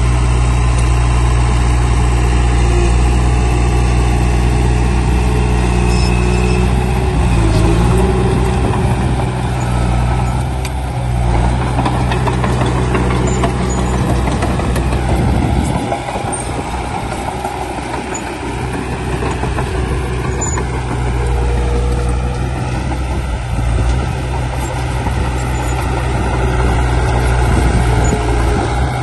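Heavy diesel machinery engine running with a low, steady drone. Partway through, the drone breaks up into rougher, noisier sound as the load changes, then settles back to a steady run near the end.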